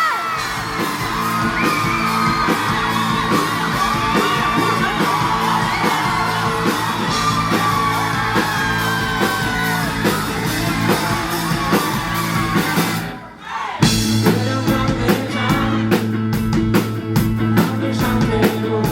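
Live rock band playing with a lead singer's melody over guitars and drums. The music drops away briefly about thirteen seconds in, then the full band comes back in with hard drum hits.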